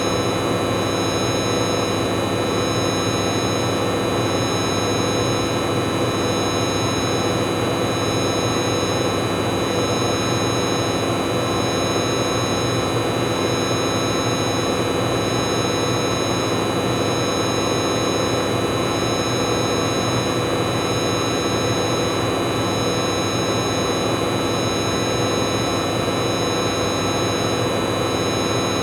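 Bauknecht Super Eco 7615 washing machine spinning at a steady high speed: the drum rumbles and the inverter motor gives off several steady high-pitched whining tones, with no rise or fall in speed.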